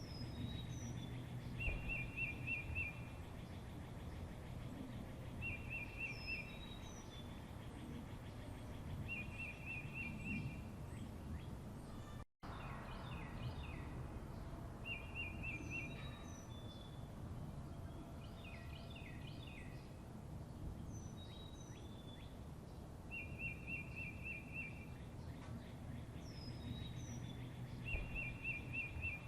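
Small birds singing: a short trill of about a second repeated every few seconds, with thin, high, falling call notes in between, over a steady low rumble. The sound cuts out for a split second about twelve seconds in.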